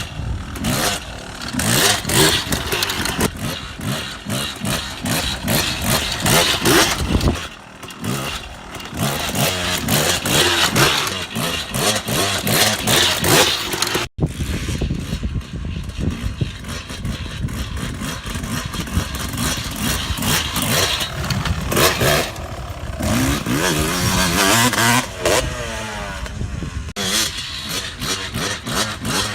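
Dirt bike engine revving up and down as it is ridden, rising and falling in pitch, with a brief break in the sound about halfway through.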